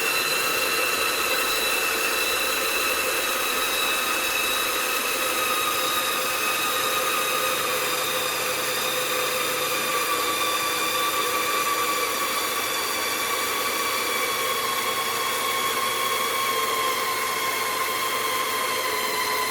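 CaDA M motor, a small Power Functions-compatible electric motor, running on a test bench with a steady whine. The pitch falls slowly throughout as the motor slows under a torque load.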